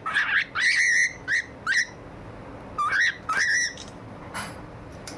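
Birds calling: short, whistled, squawky calls that rise in pitch. About five come in quick succession in the first two seconds, and two more about three seconds in.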